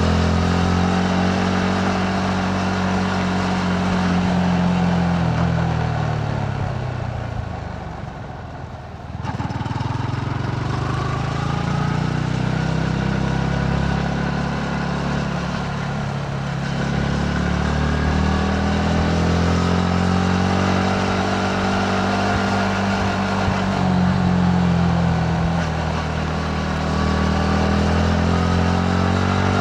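Yamaha MT-15's 155 cc single-cylinder engine under way on a motorcycle. The engine note falls as the bike slows and drops off sharply about nine seconds in, then rises again and swings up and down through the throttle and gears, over steady road and wind noise.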